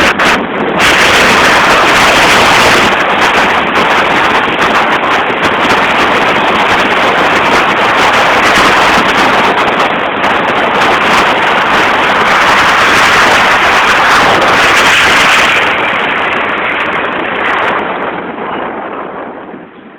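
Loud, steady road noise of a car driving, an even rush without clear tones, which fades away over the last couple of seconds.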